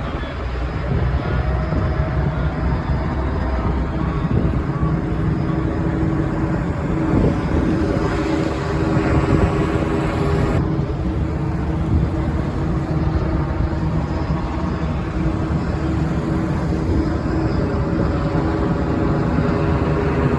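A car running, with steady engine and road rumble. A higher hiss builds from about eight seconds in and cuts off suddenly a couple of seconds later.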